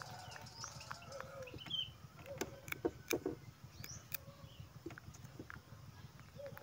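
Baby monkey chewing cucumber: a few sharp crunching clicks, loudest about two and a half to three and a half seconds in, over a faint background haze.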